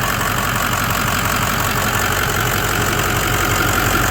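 Ford 6.0 Power Stroke V8 turbodiesel idling steadily.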